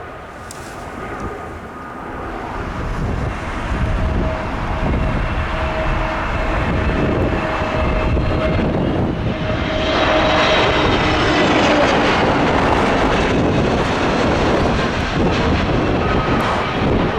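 Jet airliner's engines passing low and close, the roar swelling over the first few seconds; about ten seconds in it peaks as the aircraft goes by, with a high whine that falls in pitch.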